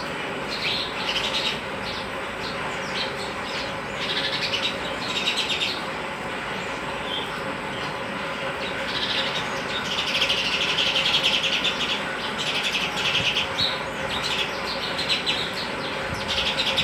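Sparrows chirping in repeated bouts, with a dense stretch of rapid chatter about ten seconds in, over steady background noise.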